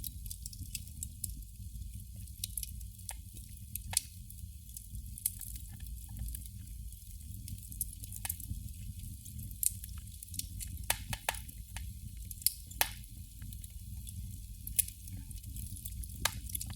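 Candle flame crackling: irregular sharp pops and ticks, a few each second and unevenly spaced, over a faint hiss and a steady low rumble.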